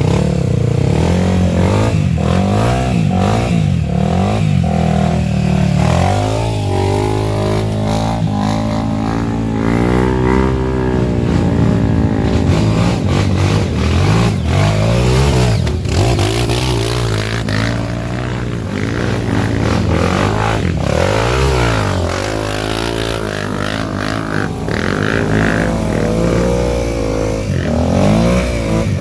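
Several off-road trail motorcycle engines revving, their pitch rising and falling repeatedly and overlapping one another.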